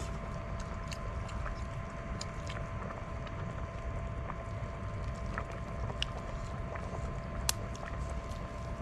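Steady low rumble of wind, with a faint steady hum and scattered small crackles and clicks.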